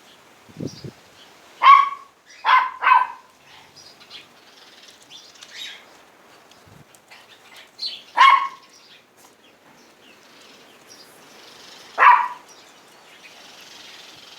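A dog barking five times: three close together near the start, then a single bark at about eight seconds and another at about twelve. Faint chirping of house sparrows runs underneath.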